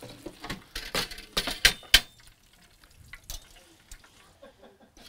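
Metal cooking utensils clinking and knocking against a pan, a quick run of sharp clicks in the first two seconds and one more about three seconds in, over a faint frying sizzle.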